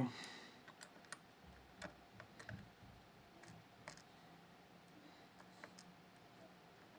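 Faint, scattered clicks and light taps, about a dozen at uneven intervals, from the small pins and tools of a disassembled Miwa Kaba Star dimple lock being handled.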